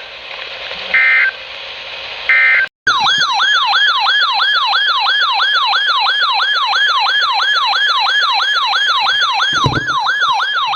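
Emergency Alert System end-of-message data bursts, the last two of three short screeching bursts, over broadcast hiss. Then a loud, fast-repeating siren tone takes over, sweeping about three times a second.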